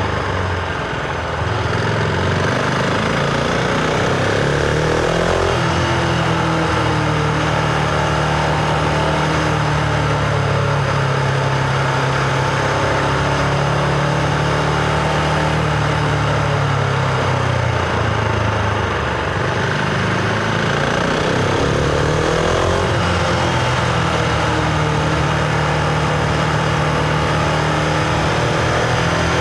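Husqvarna Vitpilen 701's single-cylinder engine running under way, mostly holding a steady cruising note. The note eases off briefly near the start and again about two-thirds through, then picks back up, with road and wind rush underneath.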